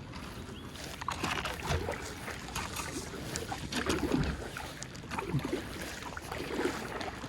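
Kayak paddle strokes in river water: the blade dipping and splashing several times at an uneven pace.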